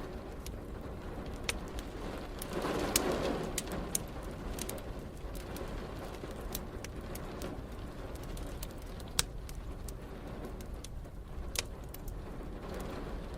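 Wood fire crackling, with sharp irregular pops over a steady hiss of rain. About three seconds in comes a brief, soft swell of lower sound.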